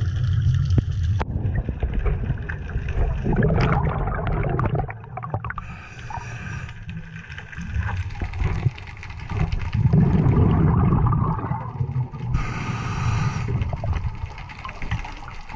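A scuba diver's regulator breathing underwater, heard through the camera housing: a hissing inhalation about six seconds in and again about twelve seconds in, with low gurgling rumbles of exhaled bubbles between them.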